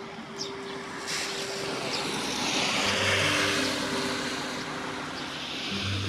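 A vehicle passing by, its tyre and road noise swelling to a peak mid-way and fading, over soft background music with long held notes.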